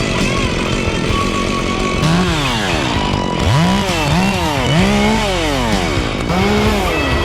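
Two-stroke chainsaw revved up and back down about five times, starting about two seconds in; each rev rises and falls in pitch.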